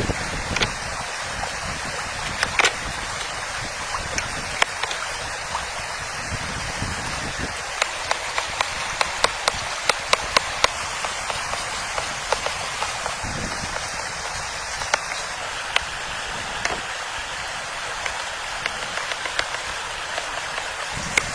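Steady rushing water noise with many scattered sharp ticks.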